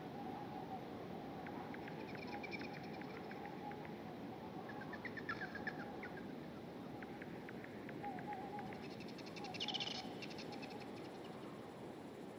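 Small birds calling in a forest: scattered short chirps and rapid trills, the strongest about ten seconds in, over a faint steady background hiss.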